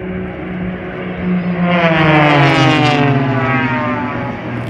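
Extra 300 aerobatic aircraft, with 300-horsepower Lycoming six-cylinder engines and three-bladed propellers, ripping past low at full power. The engine note swells loud about two seconds in and then falls steadily in pitch as the aircraft go by.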